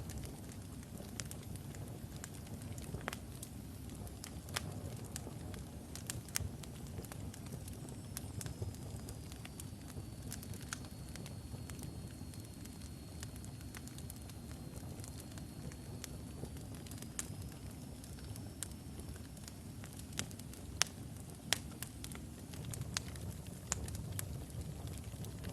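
Wood logs burning in a fireplace: a steady low rumble of flames with scattered sharp crackles and pops, and a faint thin high whistle through the middle.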